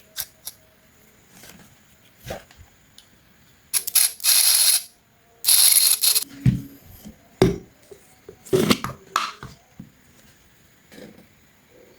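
Clicks and knocks from hands working on a small DC motor and its parts, with two hissing bursts of about a second each near the middle. The motor itself is not running.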